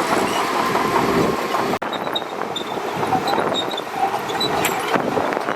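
Shantui DH17C2 bulldozer's diesel engine running steadily, broken once by a brief dropout about two seconds in.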